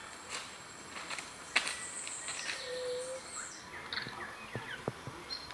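Tropical forest ambience: scattered bird chirps and whistles over a steady high insect tone, with a few sharp clicks, the loudest about a second and a half in.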